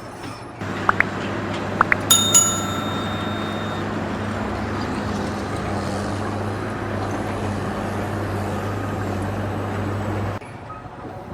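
Steady mechanical hum from a running machine, with two short squeaks and then a metallic clang about two seconds in that rings for a second or so; the hum cuts off suddenly near the end.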